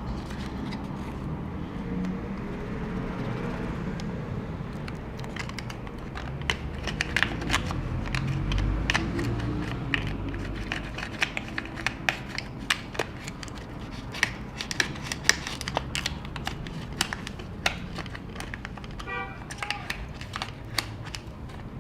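Irregular small plastic clicks, taps and crinkling from hands and a tool working the glued battery cells out of a MacBook Pro 15-inch. The clicks come thick and fast from about a quarter of the way in.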